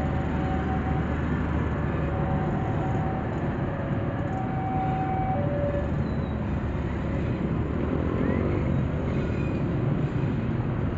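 Passenger train coaches rolling past, a steady rumble of wheels on the rails, with a few faint whining tones in the first few seconds. The last coach passes about six seconds in.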